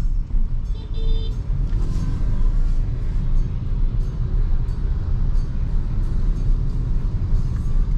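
Steady low road and tyre rumble from a BYD Seagull electric car driving along, with no engine note.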